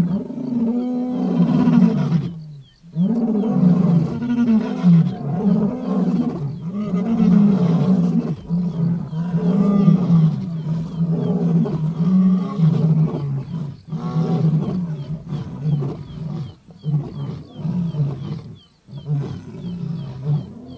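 A lion roaring: a long bout of deep, drawn-out roars, one after another about a second apart, that break into shorter grunts and fade somewhat toward the end.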